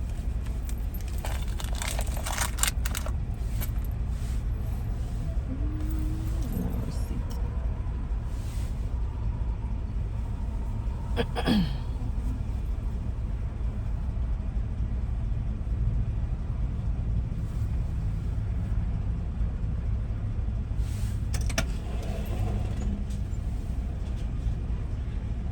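Car idling, heard from inside the cabin as a steady low engine rumble, with a few light clicks and rattles about two seconds in.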